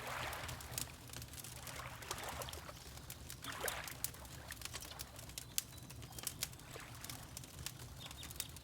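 Wood fire crackling with frequent small sharp pops, over water lapping in a few soft swells, with a steady low rumble underneath.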